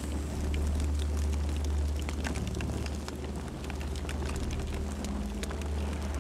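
Campfire burning, with scattered crackles and pops over a steady low rumble.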